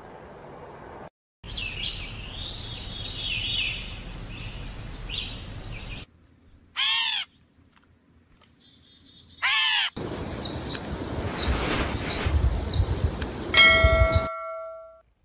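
Several spliced clips of bird calls: a warbling song over background noise, then two loud, harsh calls a few seconds apart, then chirps over noise ending with a brief steady tone.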